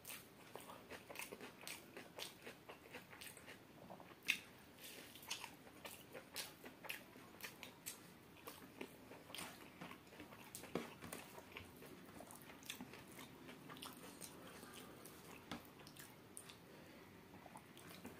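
Close-miked chewing of a mouthful of chicken biryani: soft, wet mouth clicks and smacks at an irregular pace, with a sharper click about four seconds in. Fingers mixing rice on the plate add faint squishes.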